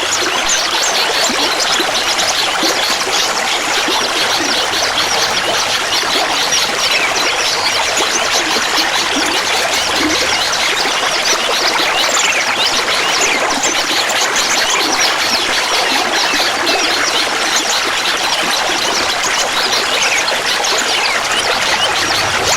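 Clear water trickling and gurgling steadily, a continuous babble of small splashes.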